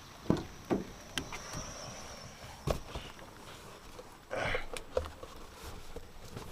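Steady rain falling, with scattered knocks and thumps of footsteps and handling near the microphone.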